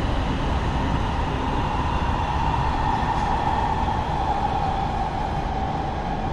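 Los Angeles Metro Rail train running: a steady rumble with a high whine that sinks slightly in pitch over the last couple of seconds.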